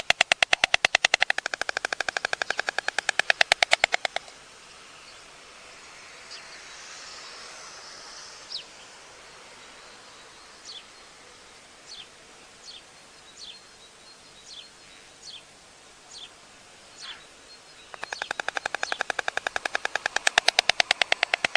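White storks clattering their bills: a fast, even rattle of bill-claps for about the first four seconds, then again from near the end. In the quieter gap between, about ten short, high, falling chirps from a bird.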